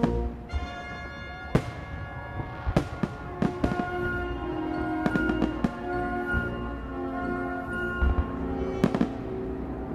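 Fireworks bursting in a display, a series of sharp bangs spread irregularly through, over loud orchestral music.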